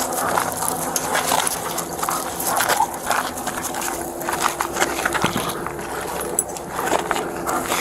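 Footsteps and gear rustling close to a body-worn camera, with irregular clicks and scuffs, while a police dog pants during a track over a faint steady hum.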